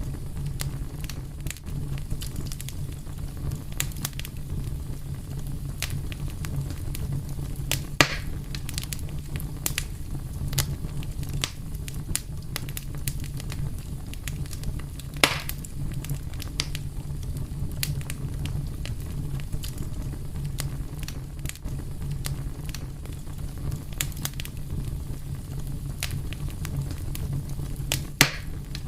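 Wood fire burning with a steady low rumble and frequent small crackles, with louder pops about 8 seconds in, about 15 seconds in and near the end.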